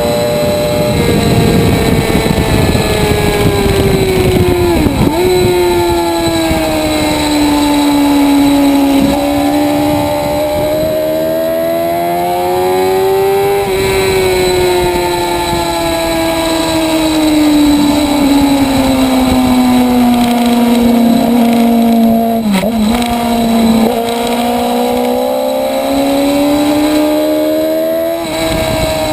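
Motorcycle engine revving hard around a race track, its pitch climbing under acceleration and sagging as it slows, over several long swells. Two sharp, momentary dips in pitch come about five and twenty-two seconds in.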